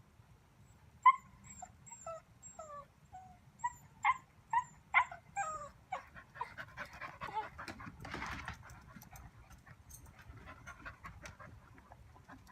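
A dog whimpering: about a dozen short, high whines, each falling in pitch, over the first half. They are followed by a few seconds of rustling.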